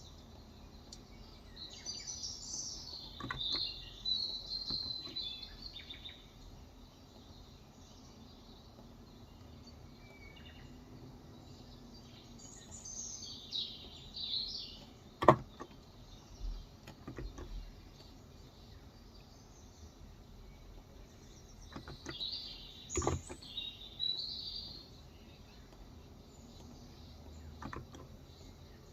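A songbird singing in three short bursts of chirps about ten seconds apart, over a steady background hiss. A few sharp single clicks come in between, the loudest about halfway through.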